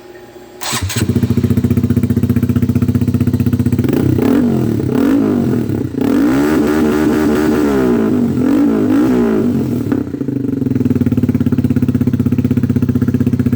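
A 2018 Honda Grom's single-cylinder 125 cc engine, breathing through an aftermarket YOSAYUSA slip-on muffler, starts about a second in and idles. Between about four and ten seconds in it is revved several times, rising and falling in pitch, then it settles back to a steady idle. The exhaust is a lot louder than the stock muffler.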